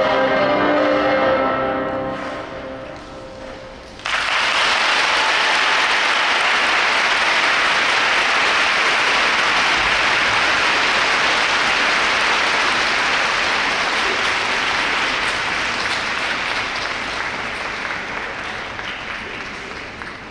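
Program music closing on a fading, bell-like chord, then about four seconds in an arena audience breaks into steady applause that slowly tapers off.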